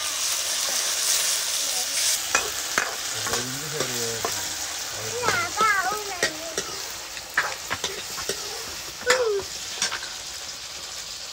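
Tomatoes, onions and peppers sizzling in hot oil in a black iron kadai, stirred with a metal ladle that knocks and scrapes against the pan a handful of times. The sizzle is strongest at first and thins out in the second half.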